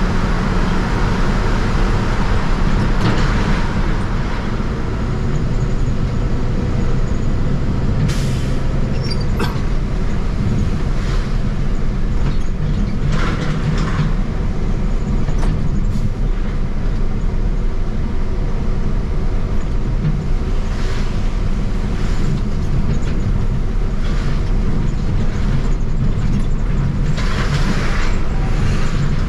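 Steady road and engine rumble of a truck on the move, with occasional brief rattles and clicks.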